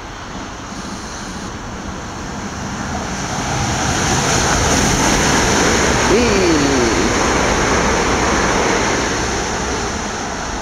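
Electrostar electric multiple unit passing through the station at speed without stopping: a rushing rumble of wheels and air that builds, peaks as the coaches go by and then fades, with a short falling tone about six seconds in.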